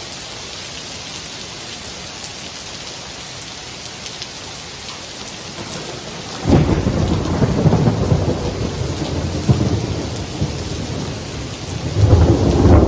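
Steady heavy rain, with thunder rumbling in suddenly about halfway through, easing off, then rumbling louder again near the end.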